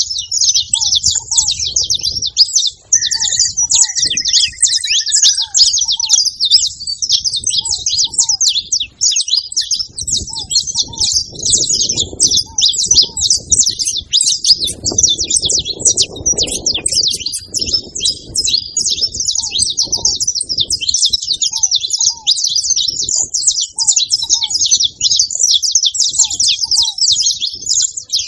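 A group of saffron finches chirping and twittering together in a dense, continuous chatter of fast, high notes.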